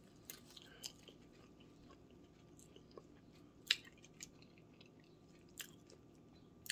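Person chewing soft fried sweet plantain with her mouth close to the microphone: faint wet mouth clicks and smacks, with one sharper click about three and a half seconds in.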